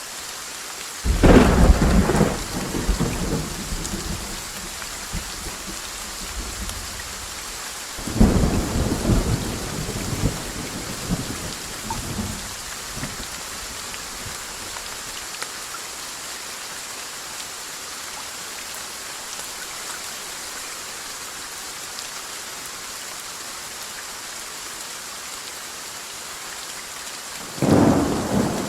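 Steady rain falling, with three claps of thunder: one about a second in, another about eight seconds in, and a third just before the end, each starting suddenly and rumbling away over several seconds.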